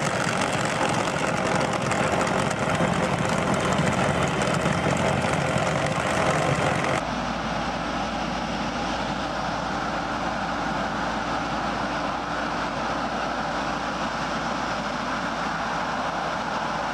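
Heavy farm machinery running with a steady, noisy drone. About seven seconds in it cuts abruptly to a different machine's steady running sound with a deeper hum.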